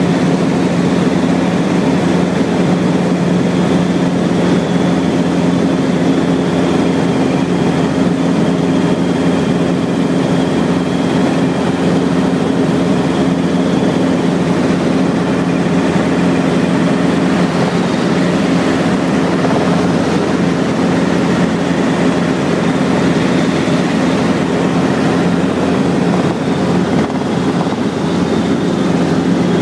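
Helicopter in flight: a steady, even drone of engine and rotor, with a fainter high tone held above it.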